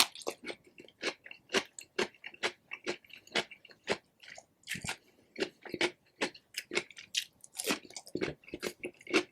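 Close-miked eating of rotisserie chicken: wet chewing and smacking with crisp bites of skin, a quick irregular run of short clicks, several a second.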